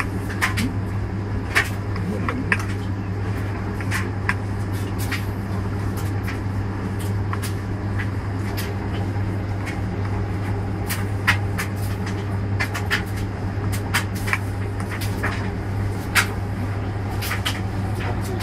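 Washing machine running a wash cycle: a steady low hum with irregular sharp clicks and knocks.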